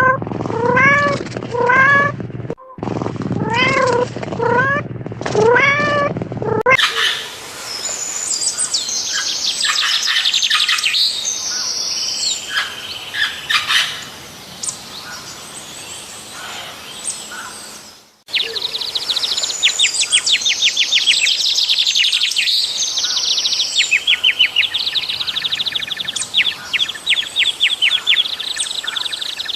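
A cat meowing over and over, roughly once a second, each meow rising and falling in pitch. After about seven seconds it cuts to small birds chirping and trilling busily, many calls overlapping, with a short break about eighteen seconds in.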